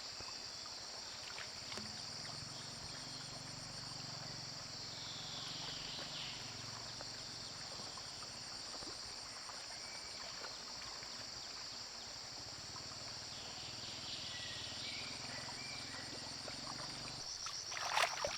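Steady, high chorus of crickets and other night insects trilling without a break, with a few brief knocks or splashes near the end.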